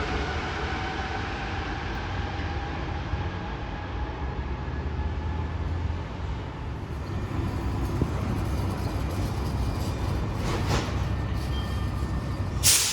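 Rubber-tyred Santiago Metro Line 5 train at a station platform: a motor whine falling in pitch as it slows at the start, then a steady rumble, with a short, sharp hiss of air near the end.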